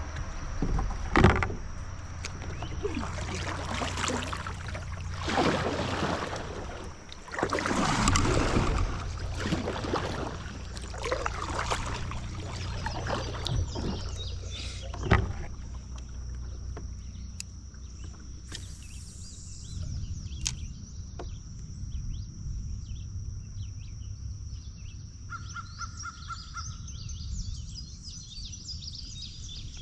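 Kayak on a river: irregular swishing water noise from paddling or moving through the water, with a few sharp clicks, in the first half. Quieter afterwards, with birds chirping repeatedly near the end.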